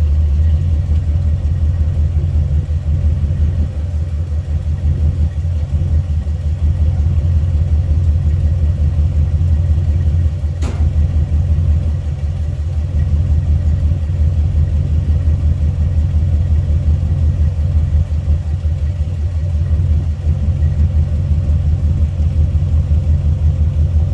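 1971 Chevrolet C10 pickup's engine idling steadily with a low, pulsing exhaust note. A single sharp click about ten seconds in.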